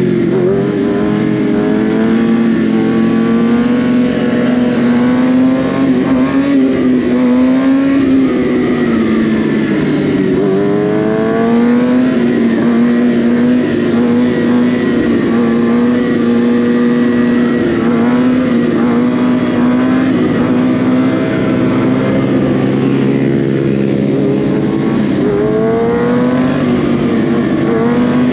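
Kawasaki ZX-6R 636 inline-four sport bike engine running while riding, holding a steady note and rising in pitch as it accelerates a few times, about ten seconds in and again near the end.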